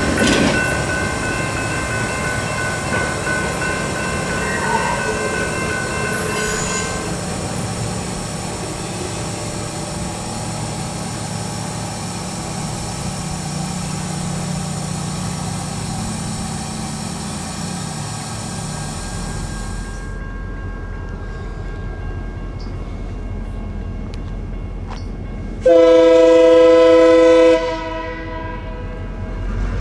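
Train rolling past with steady wheel-on-rail noise and a high metallic ringing that fades after about twenty seconds, leaving a low rumble. Near the end, a locomotive air horn sounds one loud chord of several notes, about two seconds long.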